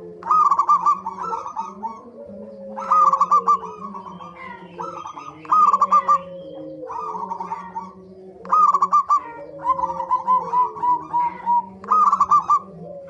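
Zebra doves (perkutut) calling: repeated loud bursts of quick stuttering coos, one every two to three seconds. Softer falling coos run beneath them, as if from more than one bird.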